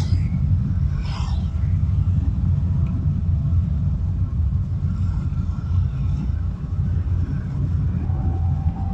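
Car driving on a busy road, heard from its dashcam: a steady low rumble of engine and tyres, with another vehicle whooshing past about a second in.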